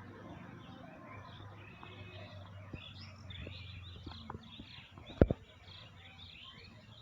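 Birds chirping and twittering over a faint low hum. Two sharp knocks about five seconds in are the loudest sounds.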